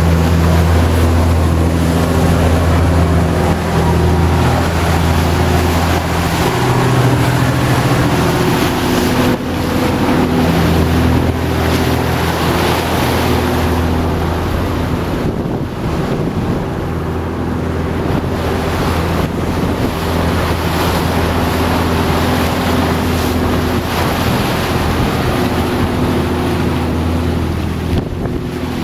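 A motor cruiser's engine droning steadily under way, under loud wind buffeting the microphone and the rush of water and waves. The engine hum weakens and comes back a few times.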